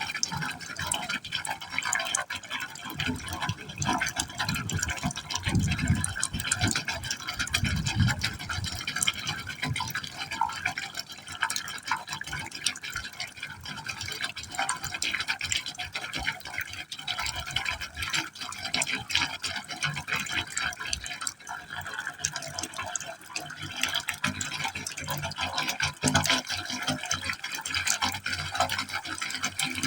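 Water falling steadily into a pipe hole, splashing and gurgling continuously, with deeper gurgles a few seconds in.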